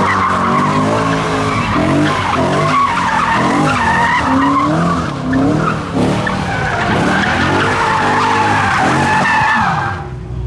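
A car sliding on tyres that squeal steadily while its engine revs up and down, then both cut off abruptly near the end.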